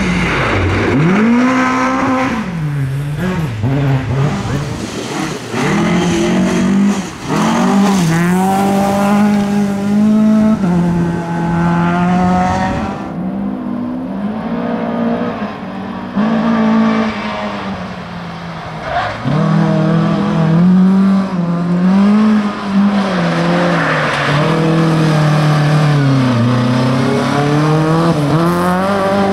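Volvo 740 Group H rally car's engine driven hard, the revs repeatedly climbing and dropping as it accelerates, shifts and brakes through the stage.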